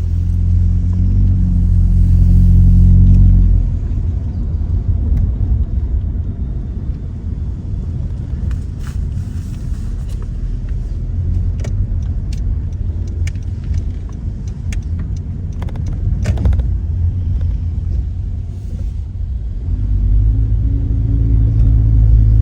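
Muffler-deleted 2017 Honda Accord LX's 2.4-litre four-cylinder exhaust driving off. It gives a loud low drone for the first few seconds, settles to a quieter rumble mixed with road noise, then swells into the loud drone again near the end. The windows are down, so the exhaust comes into the cabin from outside.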